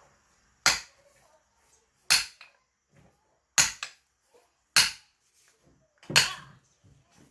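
Five sharp blows of a splitting tool biting into a log of firewood, evenly spaced about one and a half seconds apart.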